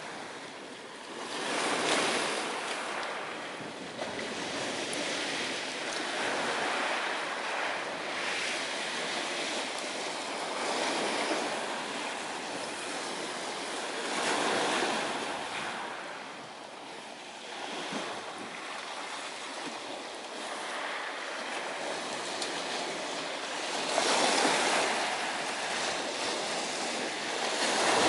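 Ocean surf: waves washing onto the shore in a steady rush that swells and ebbs every few seconds, with the biggest surges near the start and near the end.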